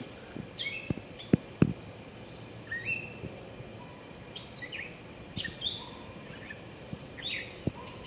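Small songbirds chirping: many short, high chirps, several falling in pitch, repeated every second or so. A few sharp clicks stand out in the first two seconds and near the end.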